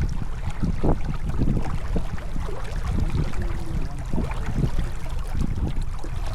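Wind rumbling and buffeting on the microphone aboard a J/24 sailboat under way, with scattered short splashes and knocks over it.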